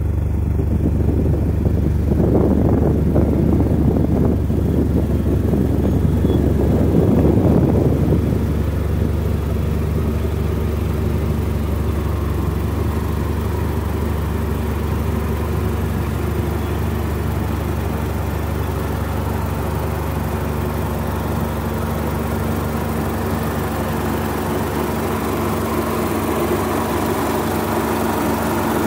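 Mitsubishi Lancer Evolution Wagon (CT9W)'s turbocharged 4G63 four-cylinder engine running at low revs as the car creeps slowly overhead, heard from beneath the car. The exhaust is louder and rougher for the first several seconds while the rear of the car passes over, then the engine note settles to a steady drone.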